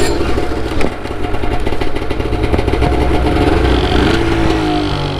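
Snowmobile engine running steadily, its pitch shifting slightly near the end.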